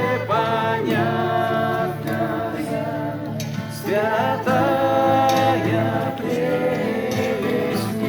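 Several voices singing a slow Christian song together, holding long, wavering notes over a steady accompaniment.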